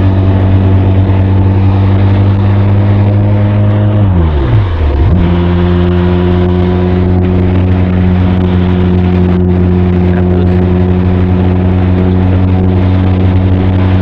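Benelli TRK 502's parallel-twin engine and exhaust running at steady cruising revs. About four seconds in the revs fall sharply for a gear change, then the engine holds a steady note again at slightly lower revs.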